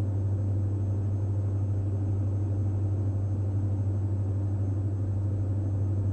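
Steady cockpit drone of a Diamond DA42 NG's twin Austro AE300 turbodiesel engines on final approach: a constant low hum.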